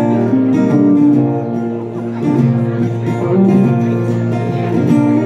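Live band playing an instrumental passage of a soulful blues-rock song: guitar with keyboards holding long, steady notes underneath.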